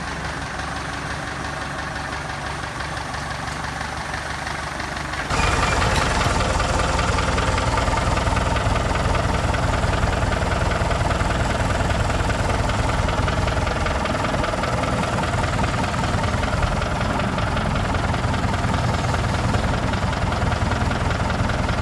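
Vintage Nuffield tractor engine running steadily with a knocking beat. About five seconds in it turns suddenly louder and fuller, then runs on at that level.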